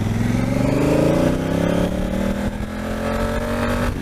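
Twin-cylinder adventure motorcycle engine accelerating: its note rises over the first second or so, holds steady under load, then falls away suddenly right at the end.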